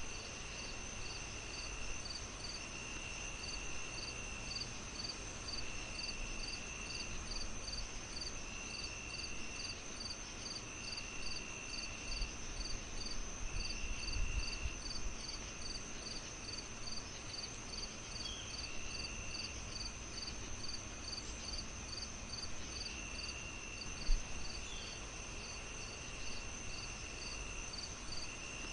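Crickets chirping in a layered insect chorus: a steady high trill, regular chirps about two to three a second, and a lower trill that comes and goes. Under them is the low crackle of a wood fire, with one sharp pop a little before the end.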